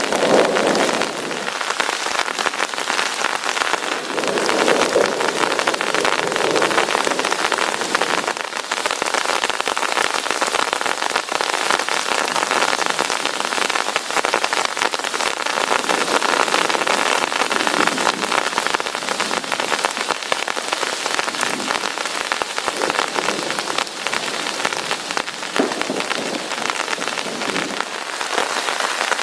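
Heavy rain falling steadily, a dense hiss thick with the patter of drops.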